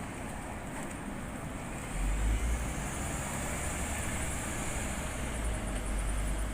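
City street traffic noise, a road vehicle running past, with a deep low rumble that comes in about two seconds in and holds.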